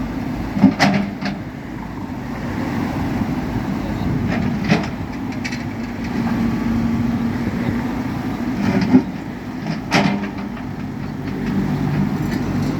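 JCB backhoe's diesel engine running steadily, with several sharp knocks as it works at a road surface too hard for it to break.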